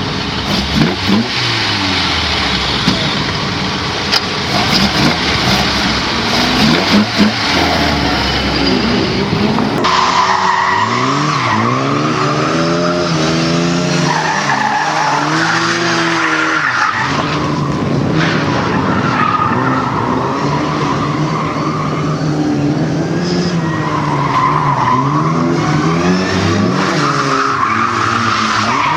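Car driven hard with its tyres squealing and skidding; from about a third of the way in, the engine revs rise and fall again and again as it slides through corners.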